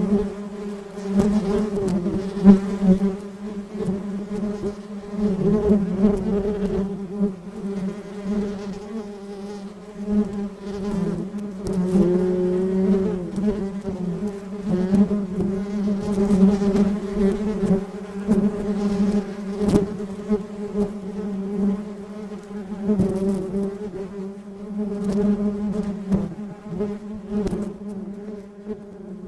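Bee buzzing: a steady droning hum with overtones, wavering in pitch and swelling and fading in loudness as it moves, with a few faint clicks.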